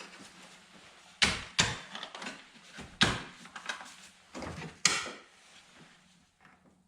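Several sharp knocks and clatters, about five in the first five seconds, from tools and parts being handled during work on the van's engine. A faint steady hum runs underneath.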